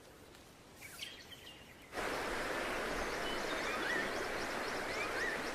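Faint outdoor ambience with a few soft bird chirps. About two seconds in it switches abruptly to a dense rainforest soundscape: a steady hiss carrying many quick high chirps, and a bird repeating a short rising-and-falling whistle roughly every second and a half.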